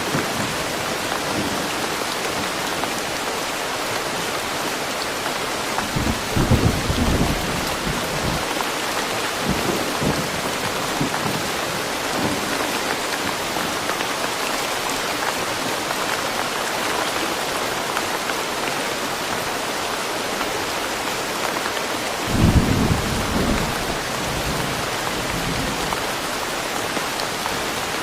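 Steady rain falling in woodland, an even hiss, with two short low rumbles, one about six seconds in and a louder one near the end.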